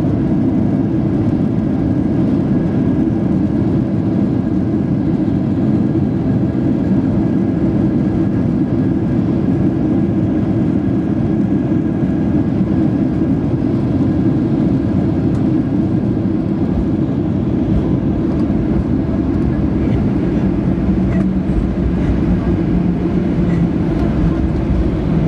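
Cabin noise of a jet airliner rolling down the runway just after touchdown: a loud, steady rumble of the wheels and engines as it slows. Near the end a low, steady hum comes up.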